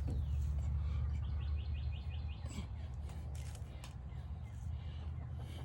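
A bird's quick trill of about seven short, high, evenly spaced notes, a little over a second in, over a steady low rumble.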